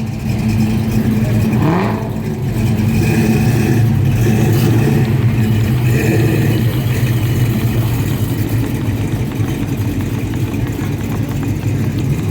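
Car engine running steadily with a loud, low hum, and a short rising rev about two seconds in.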